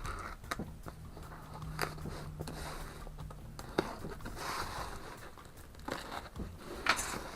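A cardboard parcel box being opened by hand, its plastic packing rustling and crinkling, with scattered sharp clicks and knocks.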